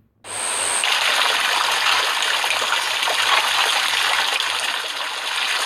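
Stream water running steadily. It cuts in suddenly after a brief moment of silence.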